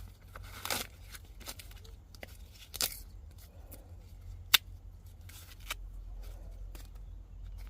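Irregular rustling, tearing and crunching from something dry being handled, with one sharp click about halfway through.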